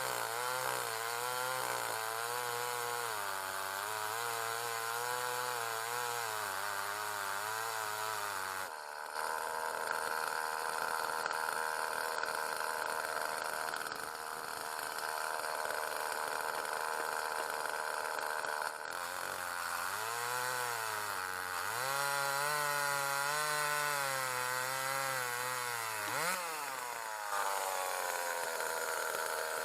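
Two-stroke ECHO CS-361WES chainsaw ripping a log lengthwise into slabs, running hard with its pitch wavering and dipping as the chain loads up in the cut, then running steady and higher between loads.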